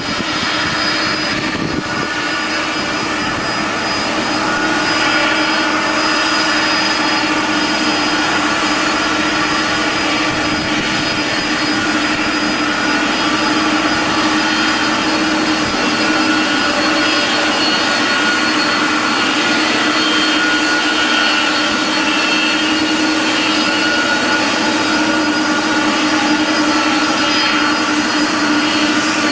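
Jet airliner engines running steadily, a continuous roar with a high whine, getting a little louder about four seconds in.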